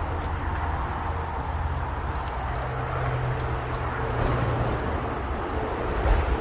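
Footsteps on a woodland trail, a scatter of light clicks and scuffs, over a steady low rumble.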